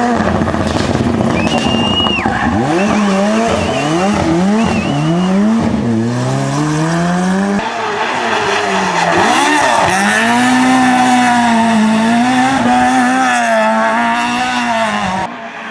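Competition car engine revving hard, its pitch climbing and dropping again and again through gear changes and lifts, with a short high tyre squeal near the start. The sound changes abruptly about halfway, as at a cut to another car.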